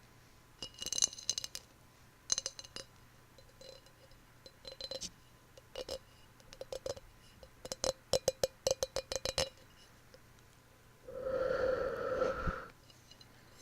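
Fingernail tapping and clinking on a glass container, with short ringing notes, scattered at first and then a quick run of about eight taps a second. Near the end comes a longer rushing sound lasting about a second and a half.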